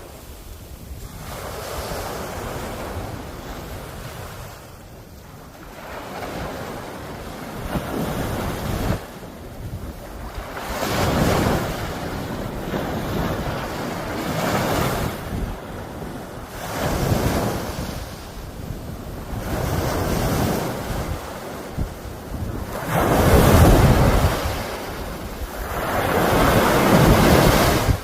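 Sea waves breaking and washing on the shore in repeated surges every few seconds, with wind buffeting the microphone and adding a low rumble; the loudest surges come near the end.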